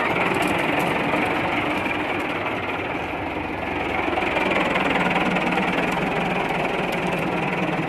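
Tractor diesel engine running steadily with a dense, even clatter.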